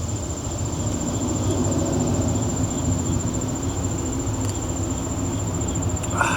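Steady low outdoor rumble with a constant high-pitched insect trill over it.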